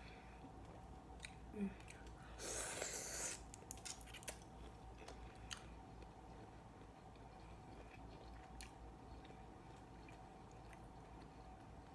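Close-up eating sounds from shrimp and mussels: chewing with small clicks and smacks, and a louder noisy burst lasting about a second a little over two seconds in. The sounds thin out to an occasional click in the second half, over a faint steady hum.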